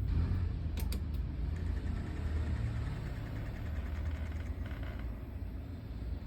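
A low, steady rumble like an engine idling, with a few sharp clicks about a second in.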